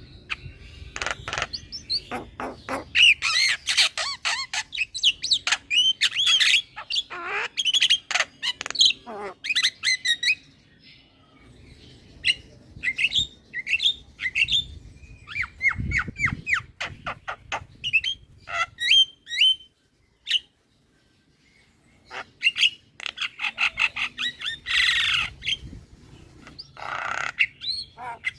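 Javan myna (jalak kebo) singing in long, busy runs of chattering whistles, squawks and rapid clicking phrases, broken by a short silence about two-thirds of the way through.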